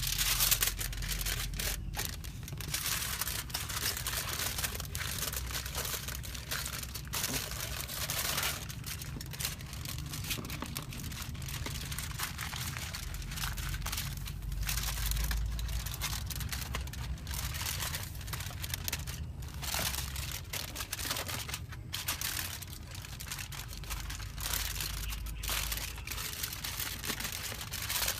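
Continuous crinkling and rustling, like something being crumpled or handled, broken by scattered clicks and short pauses, over a low steady hum.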